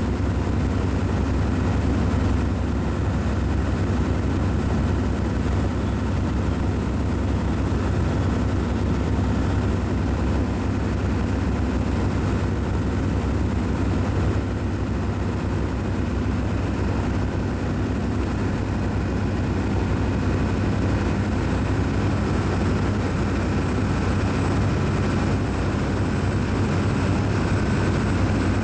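Cruise ship's machinery running: a steady low drone with a few faint steady tones above it, unchanging throughout.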